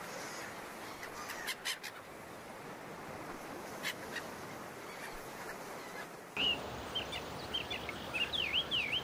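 A steady, faint background hiss. About six seconds in it gives way to outdoor ambience, with small birds chirping repeatedly in short sliding calls.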